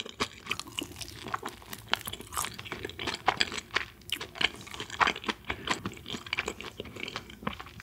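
Close-miked chewing of a fried cheese ball, with many sharp, irregular crunches.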